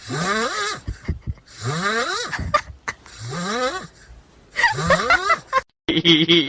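An animal giving three raspy, breathy calls, each rising in pitch and lasting about a second.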